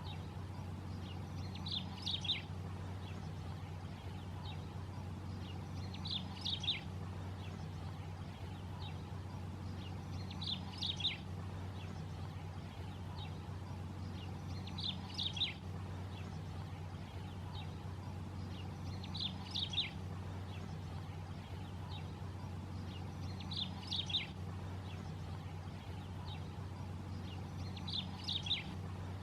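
White-rumped tanager singing: a short, sharp phrase of quick high notes, repeated about every four and a half seconds, over a steady low hum.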